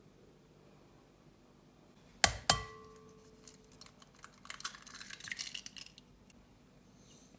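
Two sharp clinks of tableware being set down, a quarter second apart, with a short ring after them, followed by a couple of seconds of light clattering.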